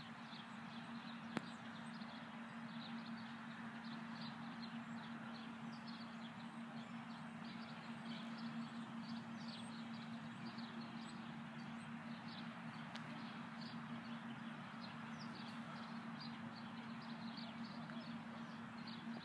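Birds chirping: many short falling chirps, several a second, over a steady low hum and background noise. A single click comes about a second and a half in.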